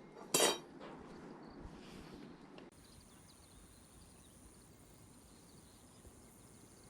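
A single sharp metallic clink of aluminium cookware about half a second in, followed by low background noise. After an abrupt change partway through, there is a faint steady hiss with a thin high tone.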